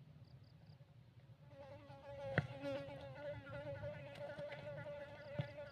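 A steady, slightly wavering buzzing drone that starts about one and a half seconds in, with a single sharp click about a second later.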